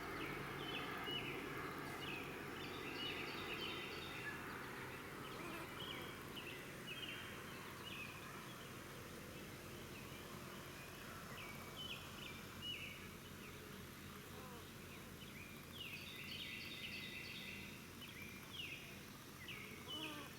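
Small songbirds chirping and calling repeatedly in short, high notes, over a steady low background of outdoor noise.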